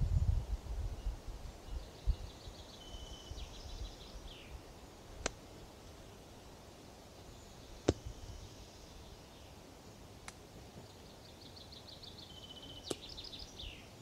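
A songbird singing the same short phrase twice, a run of quick high notes going into a trill and ending in a falling flourish, over a steady forest hiss. Low wind rumble on the microphone in the first couple of seconds, and a few sharp clicks, the loudest about eight seconds in.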